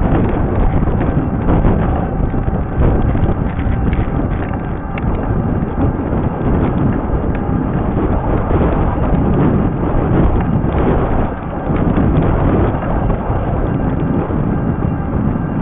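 Wind buffeting the microphone, with steady rattling and crunching from a fat-tire e-bike rolling over a rough trail.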